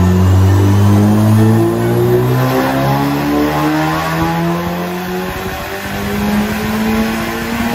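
A Honda K24 inline-four swapped into a Porsche 997 911 runs hard on a chassis dyno, its engine note rising in pitch as the revs climb over several seconds, with a change about four seconds in.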